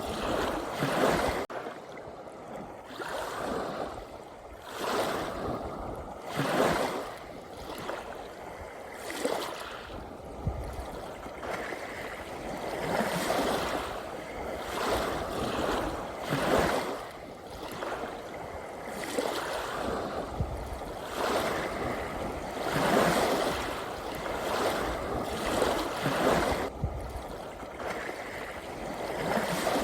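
Ocean waves washing in on a shore, the noise swelling and falling back every few seconds as each wave breaks.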